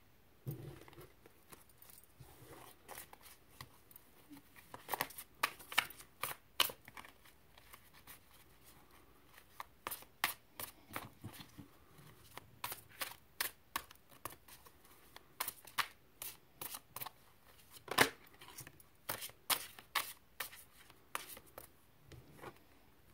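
A deck of reading cards being shuffled and handled by hand: irregular crisp snaps and slaps of card stock, sometimes in quick clusters.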